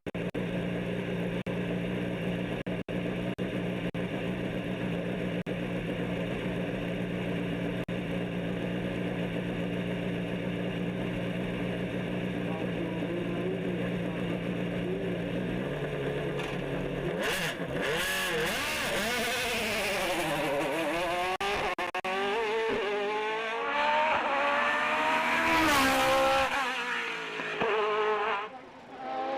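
Hill-climb race car engine holding a steady idle for about sixteen seconds, then pulling away and revving hard through the gears. The pitch climbs and drops with each shift, loudest near the end.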